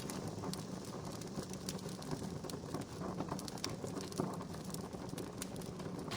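Wood fire crackling, with frequent small sharp pops over a steady low rush; one louder pop about four seconds in.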